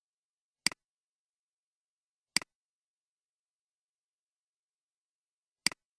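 Three single computer mouse clicks, each a sharp press followed by a quieter release, spaced irregularly with dead silence between them.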